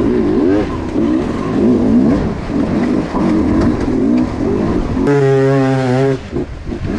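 Dirt bike engine revving hard and unevenly as the rider works the throttle on a climb, the pitch rising and falling every fraction of a second. About five seconds in, it holds steady revs for about a second, dips briefly, then revs up again near the end.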